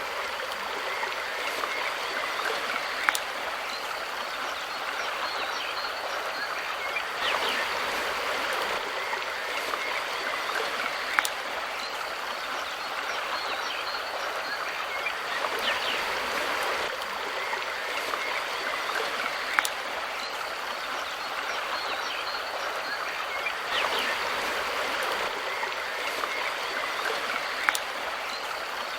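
Mountain river running steadily over rocks, a constant rushing of water, with a short sharp tick about every eight seconds.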